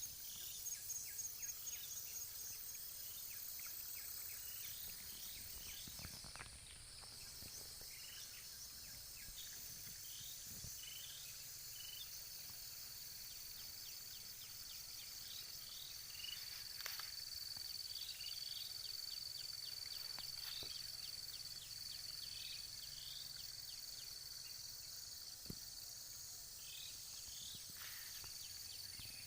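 Steady high-pitched insect buzzing and trilling, with short chirps at irregular intervals.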